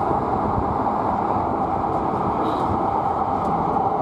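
Hankyu 9300-series electric train running at speed, a steady rumble of wheels on rail with a faint steady whine, heard from inside the leading car.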